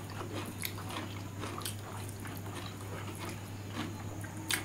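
Close-miked eating sounds: people chewing food with scattered wet mouth clicks and smacks, over a steady low hum.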